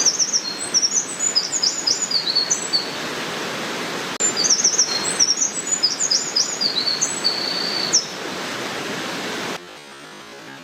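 Eurasian wren singing two long bursts of rapid, high-pitched trills and warbles, over a loud steady rushing noise that cuts off abruptly near the end.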